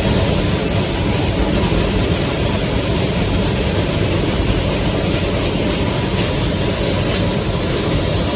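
Loud, steady rush of air and engine noise inside a Boeing 737-9 MAX airliner cabin that is open to the outside through a hole in the fuselage, where a panel blew out in flight.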